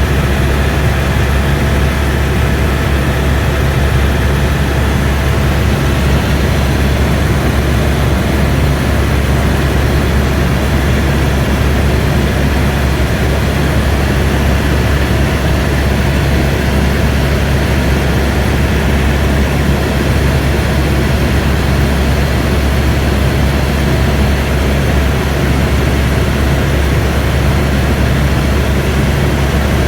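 Airbus AS350 B2 helicopter in flight, heard from inside the cabin: its main rotor and turbine engine running as a steady, loud low drone with a hiss over it.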